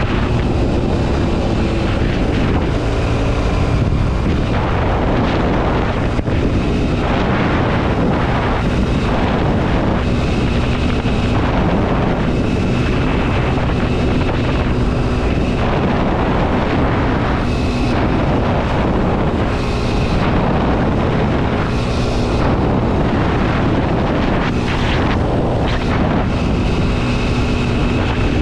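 Kawasaki KLX 230 SM's single-cylinder four-stroke engine running under way, its pitch shifting up and down with throttle, over wind noise on the microphone.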